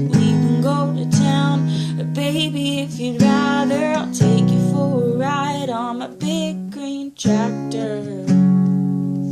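Acoustic guitar strummed under a held, wavering sung melody. A final chord is struck about eight seconds in and left to ring and fade.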